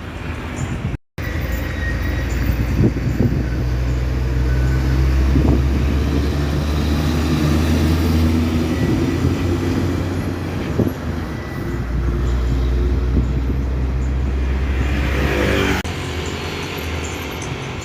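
Large diesel truck engine running with a loud, steady low drone, after a brief dropout about a second in. Near the end a rising sweep is heard before the sound cuts off abruptly.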